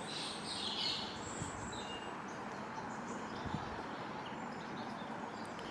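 Birds chirping in short calls, most noticeable in the first second, over a steady background hiss of outdoor ambience.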